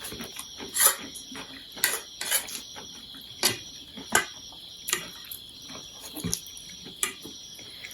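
Mukbang eating of chow mein: short, sharp clicks and smacks of chopsticks against a dish and of eating, coming irregularly about once a second, over a steady high-pitched trill.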